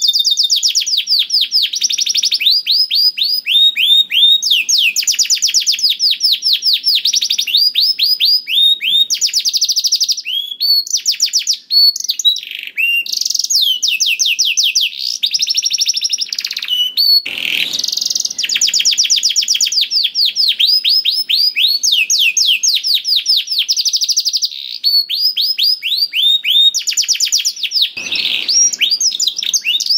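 Domestic canary singing without pause: rapid rolling trills of quickly repeated downward-sweeping notes, switching to a new trill every second or two, with a brief harsh, noisy burst a little past halfway and another near the end.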